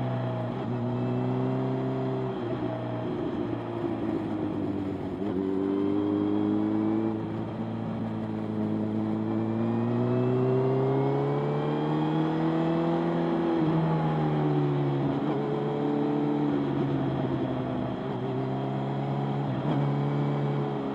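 Motorcycle engine under way, its revs climbing and dropping again and again, with short breaks in the pitch where it changes gear.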